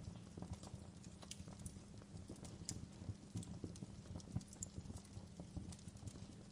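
Fire burning with dense, irregular crackles and pops over a low steady rumble.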